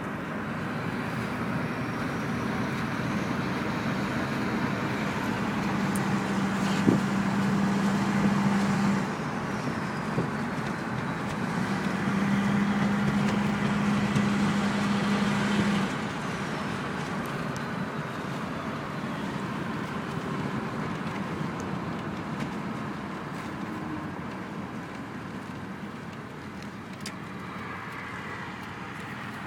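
Straight-piped 6.5 L turbo-diesel V8 of a 1995 Chevy Silverado 2500 accelerating hard. The engine grows louder through two pulls, each ending in a sudden drop about nine and sixteen seconds in, then runs more evenly and slowly quietens.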